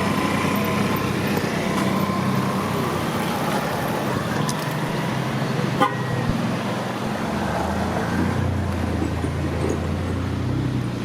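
Street traffic: vehicle engines running steadily, with short car-horn toots near the start.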